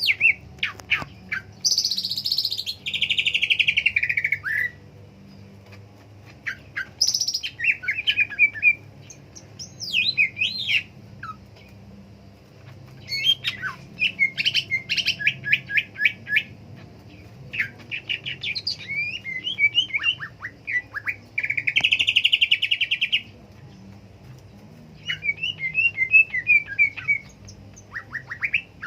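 Cucak ijo (green leafbird) singing in a string of phrases: sweeping whistled slurs, rapid chirps and fast trills, with short pauses between phrases.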